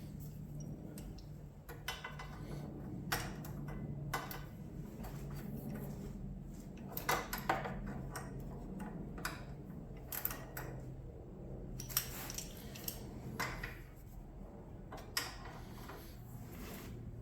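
Metal hand tools clicking and clinking at irregular intervals as the front axle pinch bolts are tightened, over a steady low hum.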